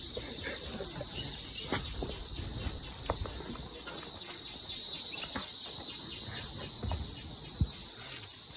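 Insects calling in a steady, continuous high-pitched chorus, with a few faint low knocks underneath.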